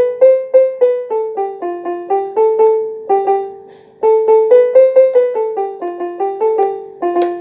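Electronic keyboard in a piano voice playing a simple melody, one note at a time at about three notes a second, with a short break about four seconds in.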